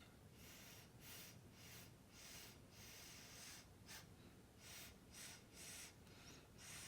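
Faint, short puffs of breath blown from the mouth, about a dozen in quick succession, pushing thinned acrylic paint across the canvas in a Dutch pour.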